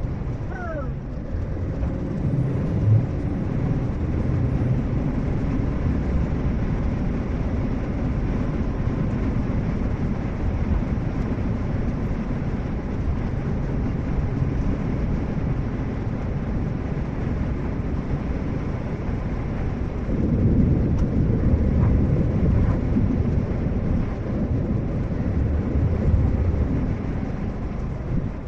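A vehicle running, heard as a steady low rumble that grows louder about two-thirds of the way through.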